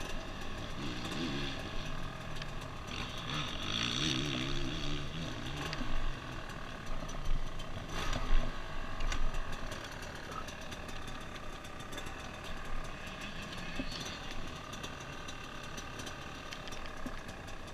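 Motocross motorcycle engine running, its pitch rising and falling over the first few seconds, then a steadier drone.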